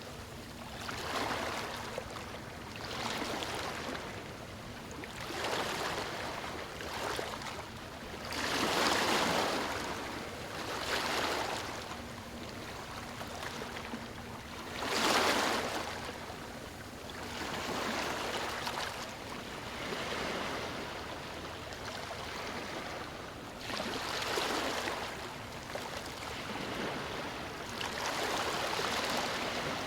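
Small waves breaking on a stony shore: a wash of water that swells and fades every two to three seconds, with two louder breaks about a third and half of the way through.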